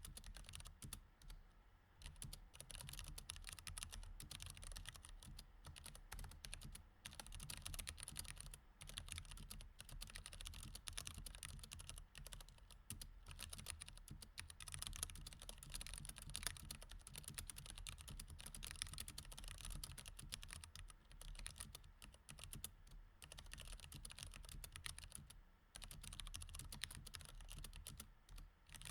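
Fast, continuous typing on a mechanical keyboard with Cherry MX Red switches: a dense run of key clicks and clacks, broken by a few brief pauses.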